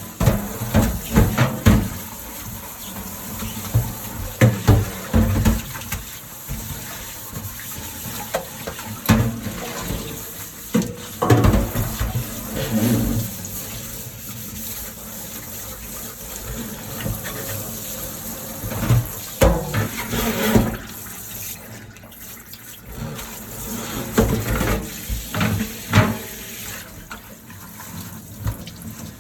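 Dishes being washed by hand at a kitchen sink: tap water running with an even hiss, and dishes and utensils knocking and clinking against each other and the sink at irregular moments.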